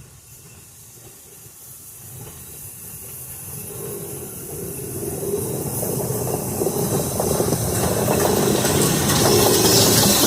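Norfolk and Western 611 J-class steam locomotive hissing steam, the sound growing steadily louder through the whole stretch.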